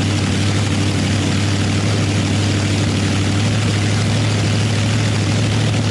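Chevy small-block V8 running at a steady idle, still cold on its first start.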